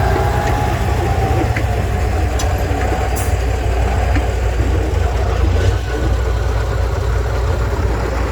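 Heavy off-road trial truck's engine running steadily, a deep low rumble.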